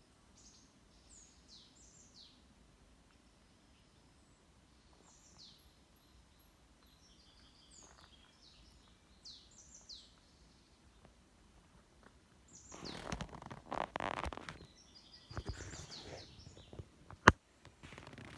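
Small birds chirping with short, quick falling notes, with a brief run of thin high peeps a few seconds in. About two-thirds of the way through, louder footsteps and rustling on a forest path begin, with one sharp click near the end.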